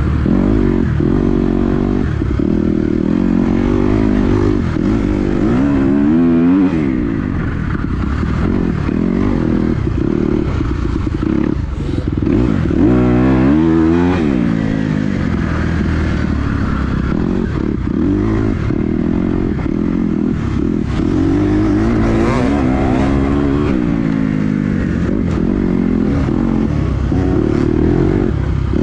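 Dirt bike engine running under load, its pitch rising and falling over and over as the throttle is opened and closed through turns.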